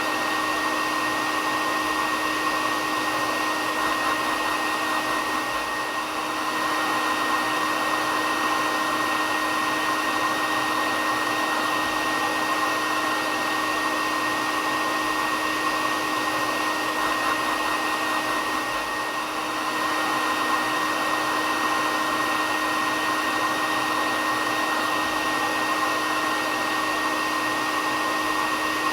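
Hair dryer running continuously: a steady blowing hiss with a constant high whine from its motor.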